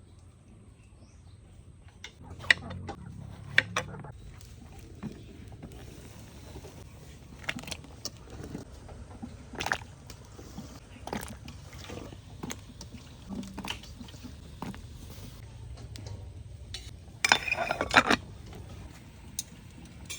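Kitchen food-preparation sounds: scattered knocks and clicks of handling, with some water sloshing, and a short burst of clatter near the end.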